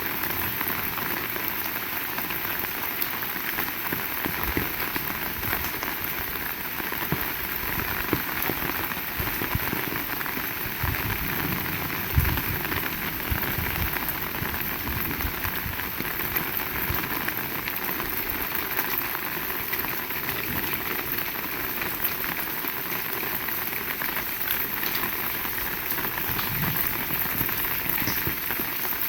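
Heavy rain falling steadily, a dense patter of drops, with one brief low thud about twelve seconds in.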